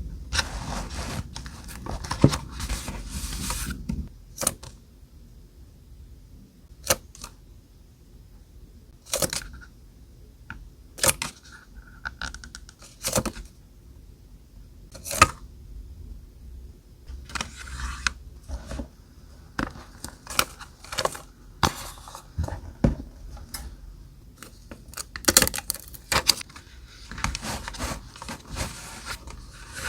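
Paper and stationery being handled for scrapbooking: close, dry rustling for the first few seconds, then scattered sharp taps and clicks as pieces are picked up and set down, with short paper-tearing sounds.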